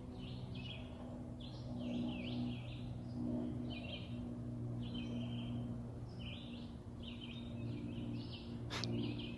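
Songbirds singing in woodland, a steady run of short chirping notes, over a continuous low drone. A single sharp click near the end.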